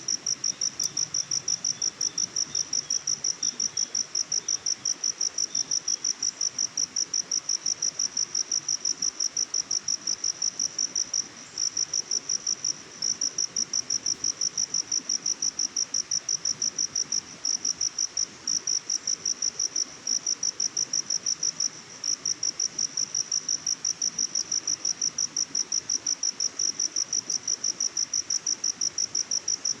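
An insect chirping steadily: a high-pitched pulsing at about four chirps a second, pausing briefly a few times.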